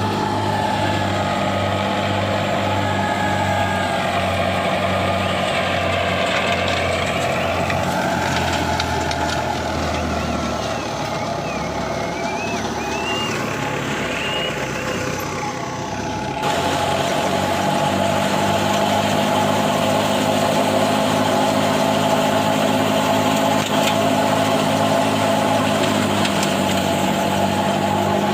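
Heavy farm vehicle engine running steadily. About 16 seconds in there is an abrupt change, after which the engine is a little louder. Faint wavering high-pitched sounds come over it between about 4 and 15 seconds in.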